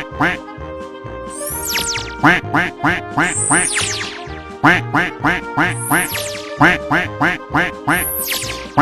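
Bouncy children's music with cartoon duck quacks in quick succession and a high falling whistle-like glide about every two seconds, four in all.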